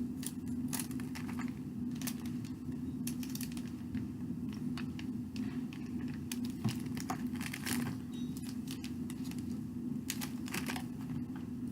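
Small clicks and rustles from handling plastic powder packets, opened and emptied into a water bottle one after another, over a steady low hum.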